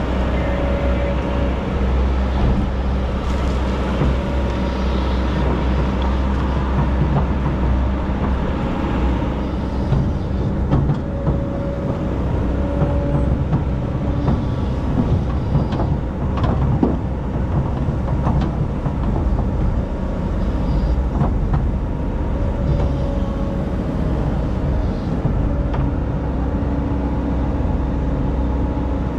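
Excavator's diesel engine running steadily under load, with a wavering hydraulic whine and scattered knocks and clanks from the digging.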